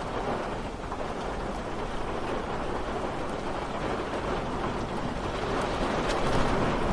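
Steady rain falling, an even hiss with a few sharper drop ticks, growing a little louder near the end.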